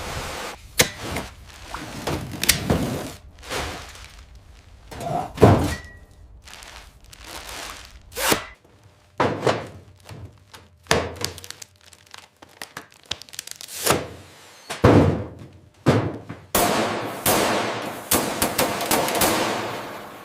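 A string of irregular knocks and thunks, some ringing briefly, followed by a hissing rush in the last few seconds.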